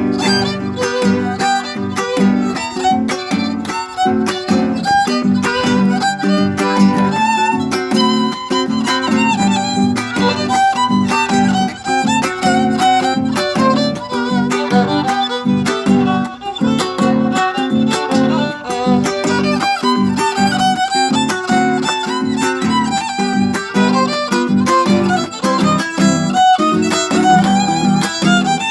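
Violin playing the melody of a gato, an Argentine folk dance tune, over a steady rhythmic guitar accompaniment.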